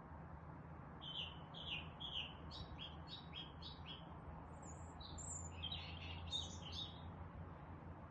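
Songbirds chirping: a run of short, evenly repeated chirps for about three seconds, then a brief jumbled phrase with some very high notes, over a steady low hum.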